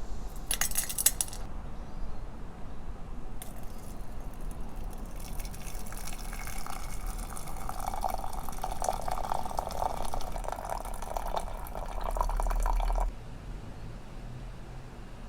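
Liquid poured steadily into a glass for about ten seconds, the pitch rising as it fills, stopping abruptly. A brief clinking clatter comes just before it.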